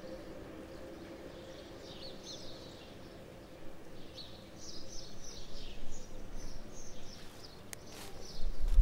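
Small birds singing in short chirping phrases, growing busier after about two seconds, over a faint steady hum. Low thumps start near the end.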